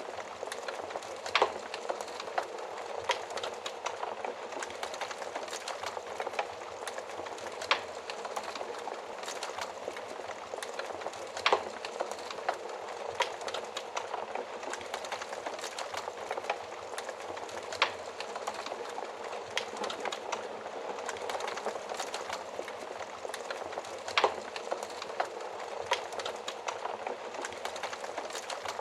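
Wood fire burning with a steady crackle and a sharp pop every few seconds.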